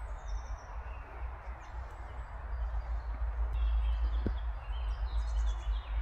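Small birds chirping faintly in woodland, a few short calls near the start and again after about three and a half seconds, over a steady low rumble, with one soft knock about four seconds in.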